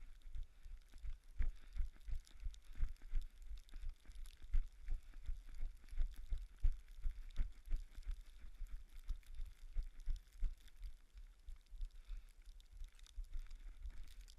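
Footsteps in snow: a steady rhythm of dull thuds, a few a second, over a faint hiss.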